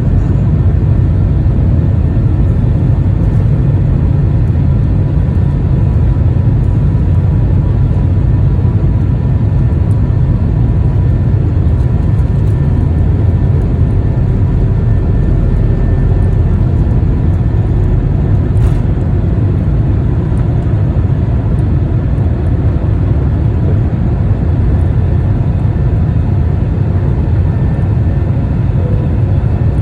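Airliner cabin noise: a steady low rumble of the engines and airflow.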